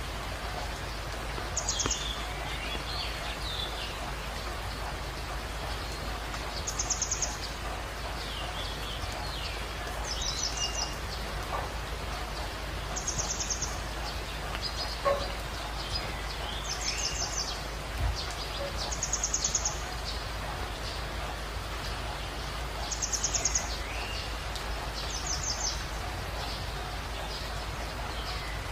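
Birds calling again and again: a short, fast, high trill every two to three seconds, with lower falling chirps in between, over a steady hiss.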